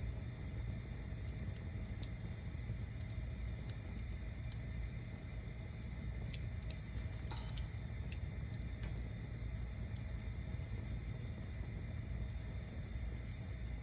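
Tower-stacked wood bonfire burning: a low steady rumble of flame with scattered crackles and pops of burning wood, and a brighter cluster of crackles about seven seconds in.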